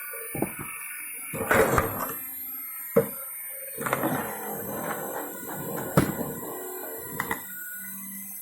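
Firewood being split: sharp cracks and knocks of wood at irregular intervals, the loudest about three and six seconds in.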